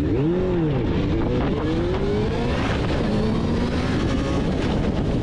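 Motorcycle engine under way with heavy wind rush, its pitch swelling up and falling back about half a second in, then climbing steadily as it accelerates.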